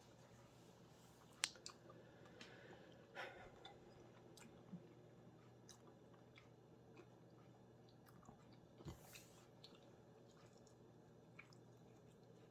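Faint chewing of a chicken wing dipped in ranch, with scattered soft mouth clicks and small crunches. The sharpest click comes about a second and a half in.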